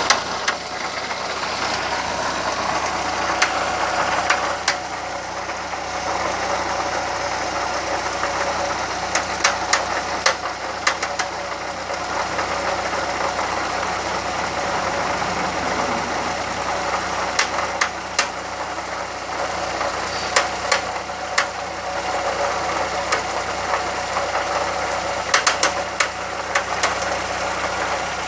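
Volkswagen Gol 1.0 engine running steadily, with irregular sharp clicks over the drone, several in quick clusters. This is the unexplained engine noise that the owner is asking about.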